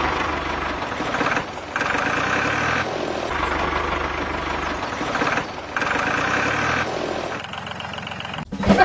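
An engine running steadily, like a tractor, with short dips in level every one to two seconds.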